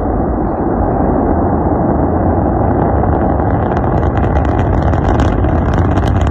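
Rocket engine roar: a loud, steady rumble, with crackling coming in from about halfway through.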